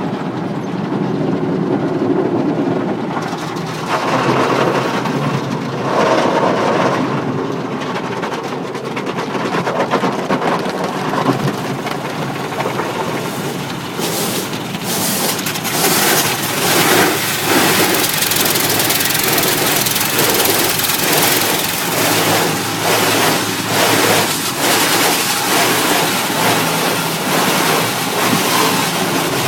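Automatic car wash heard from inside the car: water spraying and rushing over the body while the wash machinery runs. It grows louder and harsher about halfway through.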